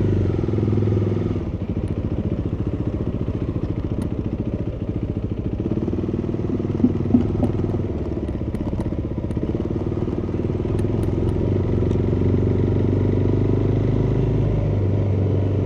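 Motorcycle engine running steadily at low revs, heard muffled through a microphone inside the tank bag, with a few short clicks about seven seconds in.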